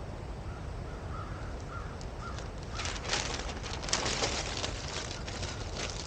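Crackling and rustling of dry twigs and brush being handled or stepped on for a couple of seconds in the middle, over a steady low rumble of wind or water. Before it, a bird calls a short run of repeated notes.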